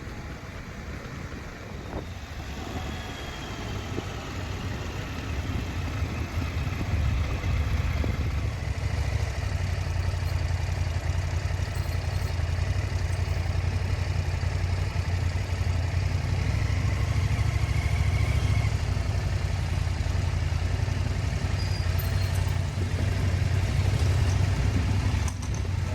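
Motorcycle engine running at road speed, growing louder over the first several seconds and then holding a steady low drone.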